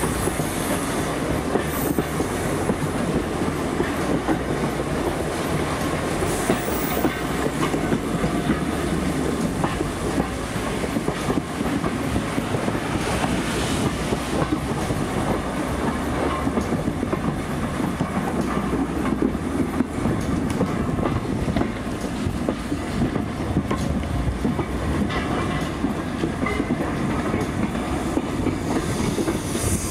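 Heritage steam railway carriages running along the track, heard from an open carriage window: a steady rumble of wheels on the rails.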